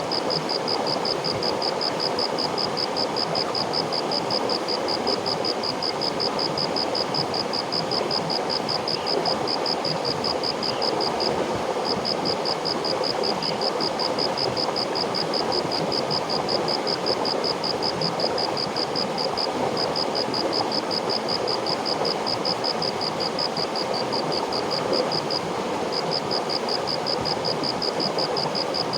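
River water flowing steadily, with an insect's high, rapid pulsing trill running over it and pausing briefly three times.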